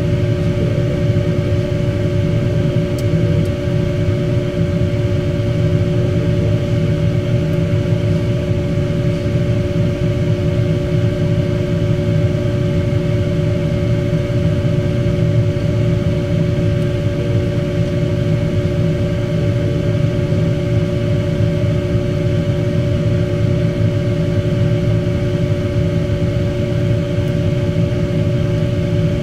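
Steady mechanical hum of a running motor or fan. It has a dense low drone and two clear steady tones, and holds unchanged throughout.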